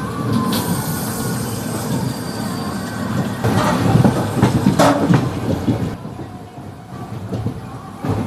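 Kaveri Express passenger train running along the track: steady wheel-and-rail rumble with a couple of sharp clanks and a faint thin wheel squeal. The noise eases somewhat about six seconds in.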